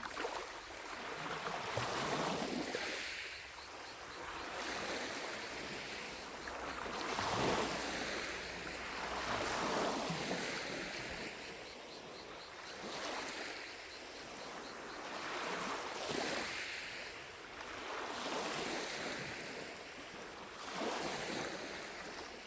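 Small lake waves lapping against the shore, each swell rising and fading every two to three seconds. Distant cicadas buzz faintly behind them.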